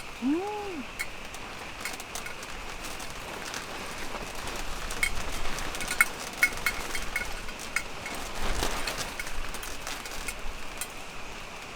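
Chicken skewers sizzling on a camp grill, with scattered crackles and pops that come thickest midway. A brief hummed voice sounds right at the start.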